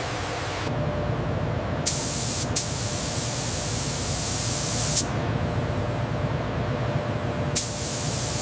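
Compressed-air spray hissing in two bursts, the first about three seconds long and the second starting near the end, each opening with a sharp click. A steady low machinery hum runs underneath.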